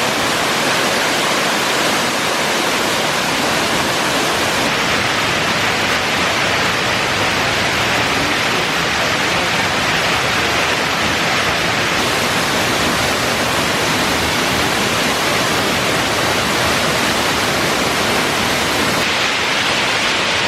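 Hareshaw Linn waterfall's steady, loud rush of water, in heavy flow after torrential rain.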